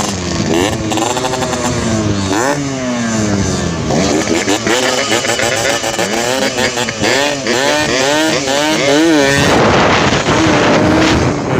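Yamaha RX-King two-stroke single-cylinder motorcycle revved through its exhaust in quick repeated throttle blips, the pitch swooping up and down again and again. A louder, rougher stretch follows near the end.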